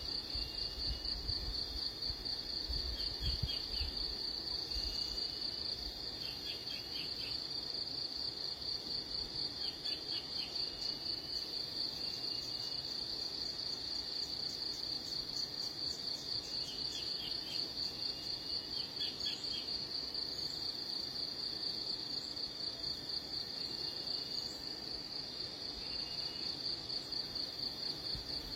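A steady, high-pitched insect trill pulsing rapidly throughout, with short bird chirps breaking in every few seconds.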